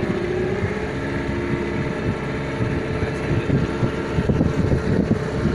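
Boat's outboard engine running steadily at cruising speed, one held engine note. Wind buffets the microphone, more gustily in the second half.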